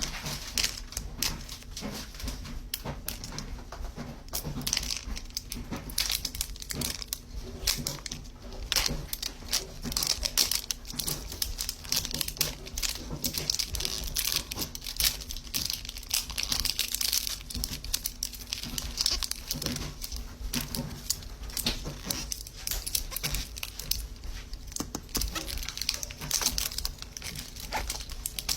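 Plastic toy packaging crinkling and rustling as a Zuru 5 Surprise capsule is unwrapped and handled, with frequent small irregular clicks and crackles.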